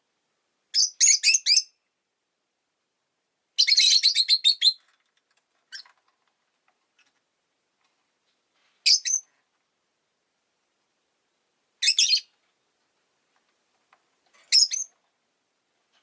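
Rosy-faced lovebird chirping in separate bursts: a quick run of about four high chirps, then a longer rapid chatter, then several short single or double chirps with quiet gaps between.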